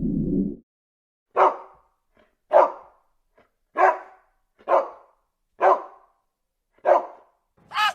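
A dog barking six times, single sharp barks about a second apart.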